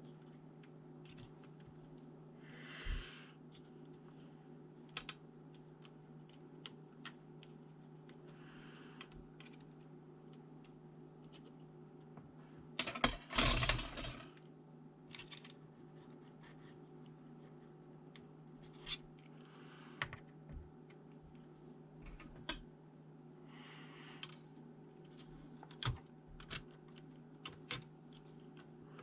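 Scattered light clicks and taps on a ThinkPad T400 laptop, with a louder clattering burst about 13 seconds in, over a steady low hum.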